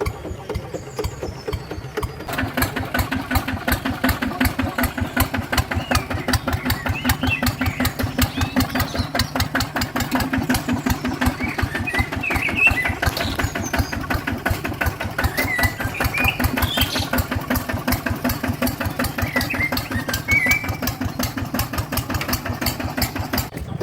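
Small tractor engine running with a rapid, even putt-putt, picking up and running harder about two seconds in.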